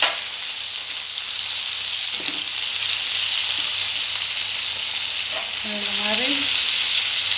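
Sliced monthan plantain frying in coconut oil in a cast-iron skillet, a steady sizzle, with the scrape of a slotted metal spatula as the slices are turned.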